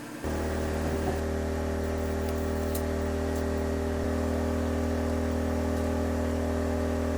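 Small petrol generator running at a steady speed, a low even hum with a constant drone above it. It cuts in abruptly a moment after the start.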